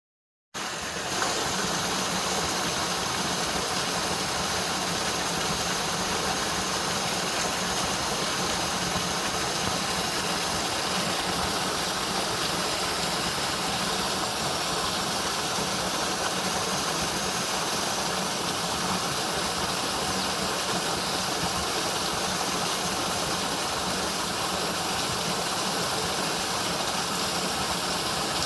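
Waterfall, water rushing in a steady, even roar that cuts in abruptly about half a second in.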